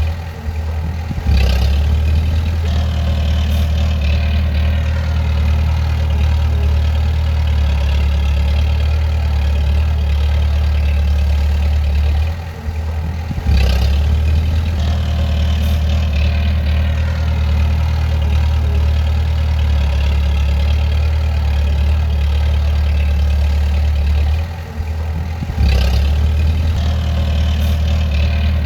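Bulldozer's diesel engine running steadily with a deep hum. The sound drops briefly three times, about every twelve seconds, and each time comes back with a sharp click.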